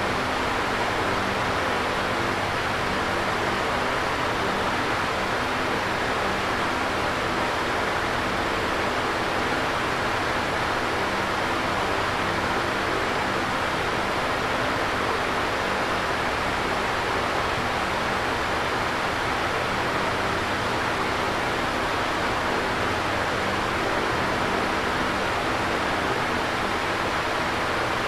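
Electric fan running steadily: an even whoosh of moving air with a faint low hum underneath.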